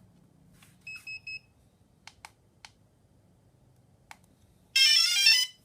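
DJI Phantom 2 with a Zenmuse H3-3D gimbal: three short electronic beeps about a second in, a few light clicks, then near the end a loud, brief burst of rapid jumbled electronic tones, the gimbal's abnormal sound.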